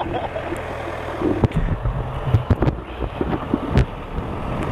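Sportbike engine idling steadily with wind on the microphone, and a few sharp knocks.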